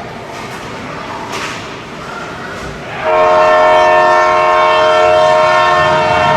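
Arena game horn sounding one long, loud, steady blast that starts about three seconds in, the signal for the end of play. Before it, background crowd noise with a knock or two.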